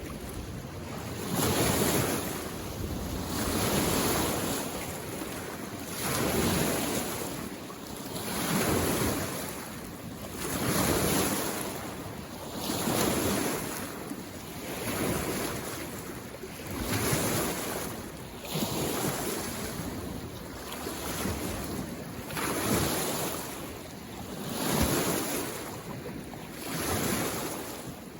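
Small lake waves washing onto the shore in a steady rhythm, one swell about every two seconds.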